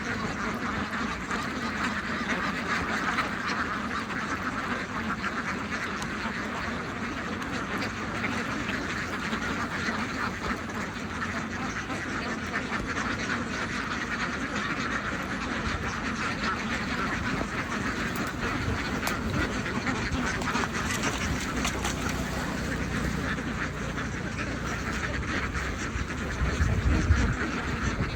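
A large flock of farm ducks quacking continuously in a dense, overlapping chorus. Some low thumps come in near the end.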